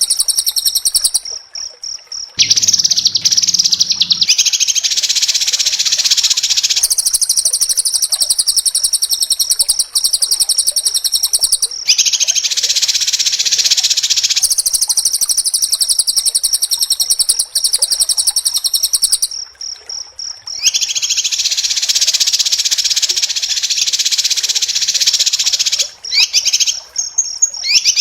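White-rumped shama (murai batu) singing a fast, tightly packed, very high-pitched song in long unbroken phrases that switch back and forth between a higher and a lower trill, with brief pauses about 1.5 s in, about 20 s in, and near the end.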